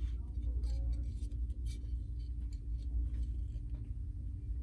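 Steady low hum with a faint steady tone behind it, and scattered light clicks and taps as a ceramic planter is turned over and checked for chips.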